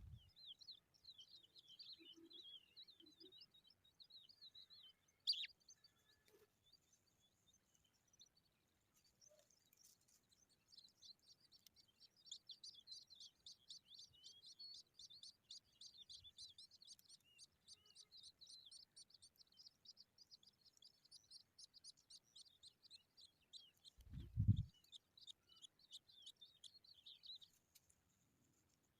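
Skylarks chirping: fast runs of high, quick notes, a short burst at the start and then a long unbroken run through most of the second half. A sharp click comes about five seconds in, and a short, low thump, the loudest sound, comes near the end.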